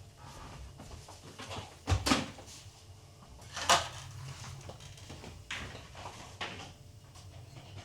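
A few separate knocks and clatters of household objects: the loudest about two seconds in and again a little later, with smaller ones later on.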